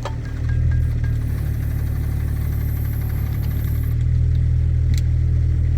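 Kubota mini excavator's diesel engine running steadily, getting a little louder about four seconds in, with a sharp click at the start and another about five seconds in.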